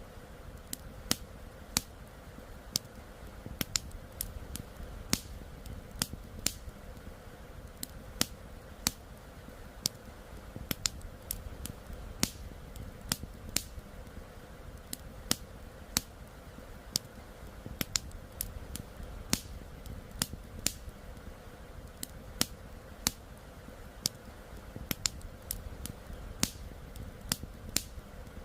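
Campfire crackling: sharp, irregular pops and snaps of burning wood, a few a second, over the steady low rush of a flowing river.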